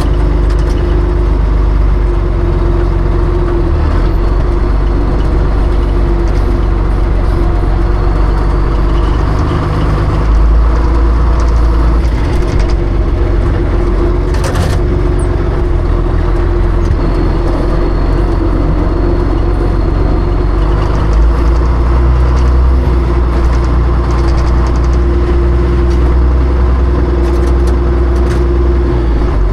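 John Deere tractor engine running steadily under load, with a strong low rumble that swells and eases now and then. There is a single sharp click about halfway through.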